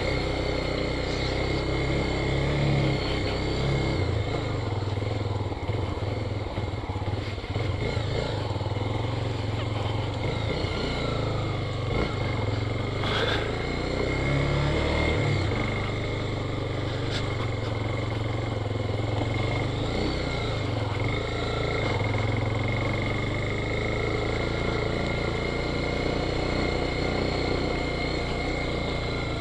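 Single-cylinder Honda motorcycle engine running steadily while riding on a dirt road.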